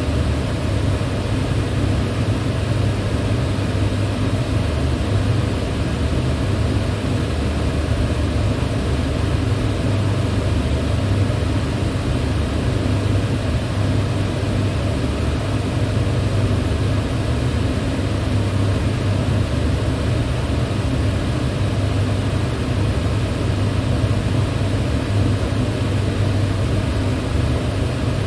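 Electric fan running at a steady speed: an even rush of air over a low hum, unchanging.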